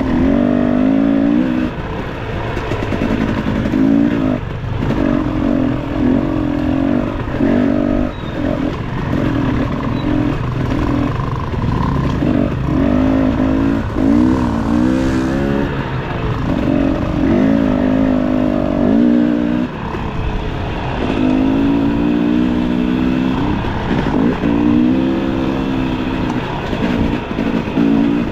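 Dirt bike engine revving up and dropping off again and again, the throttle opened and closed in short bursts over rough rumble.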